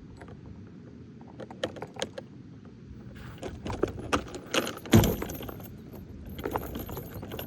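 Metal swing chains jangling and clinking as the swings are swung around, with scattered clicks and one loud heavy knock about five seconds in.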